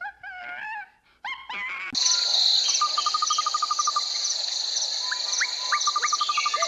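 Short, high-pitched animal calls for about two seconds, then a steady insect drone with birds calling over it: a rapid trill of even notes, repeated several times, and a few quick rising whistles.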